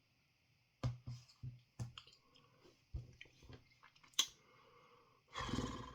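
Someone chewing crunchy freeze-dried ice cream sandwich, a scatter of short crunchy clicks, then a brief noisy rush near the end.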